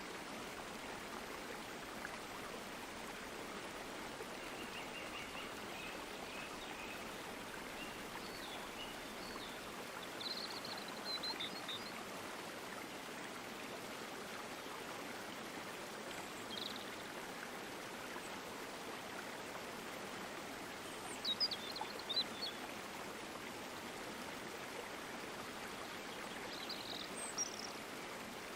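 A stream flowing steadily with an even rushing sound, and a bird chirping briefly several times over it, loudest a little past the middle.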